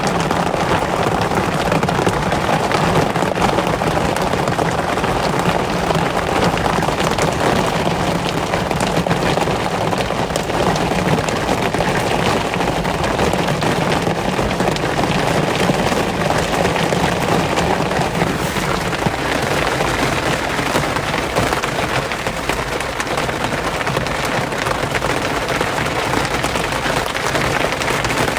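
Steady rain falling, a dense, continuous patter of drops with a low rumble underneath that eases slightly about two-thirds of the way through.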